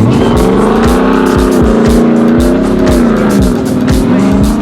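Aston Martin drift car's engine held at high revs, its pitch dipping and climbing again several times as the throttle is worked through a drift, over music with a steady kick-drum beat of about three thumps a second.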